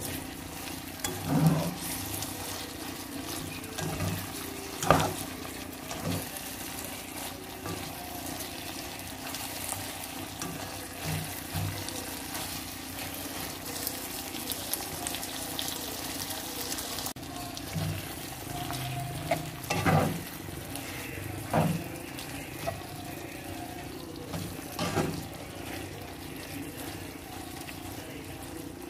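Sausage sambal sizzling in a non-stick wok as it is cooked down to a thick sauce, stirred with a plastic spatula that knocks against the pan a few times.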